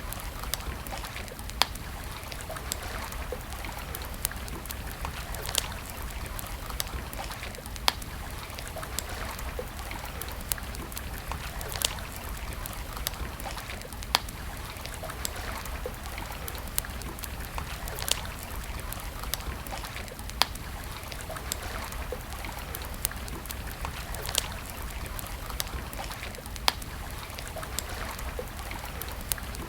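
Wood campfire crackling, with sharp irregular pops every second or two over a steady rushing hiss and low rumble.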